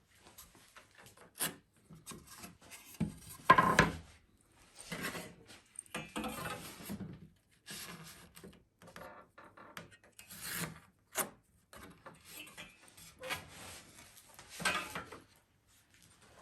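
Wood being worked by hand: irregular rubbing and scraping strokes on wooden boards, with a few short sharp knocks; the loudest scrape comes about three and a half seconds in.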